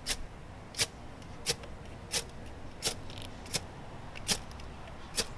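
Metal striker scraped down a ferrocerium fire steel, eight quick strokes about every 0.7 s, throwing sparks onto a cotton pad to light a campfire.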